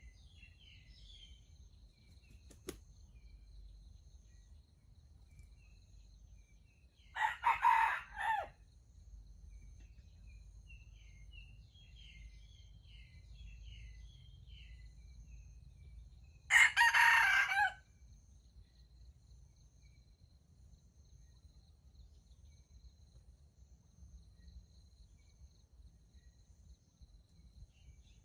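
Red junglefowl rooster crowing twice, each crow short, about a second long, roughly nine seconds apart. Faint small-bird chirping and a steady high insect tone run underneath.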